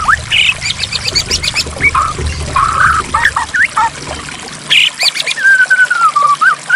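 White-rumped shama singing: fast trills and short whistles, then a long, slowly falling whistle near the end, over a low rush of flowing water.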